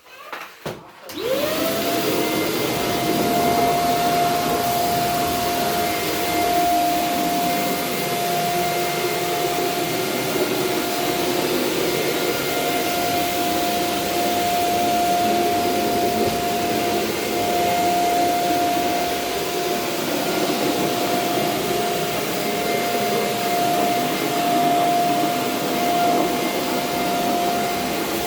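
Small vacuum cleaner switched on about a second in, its motor spinning up to a steady high whine over a rushing hiss, then running steadily.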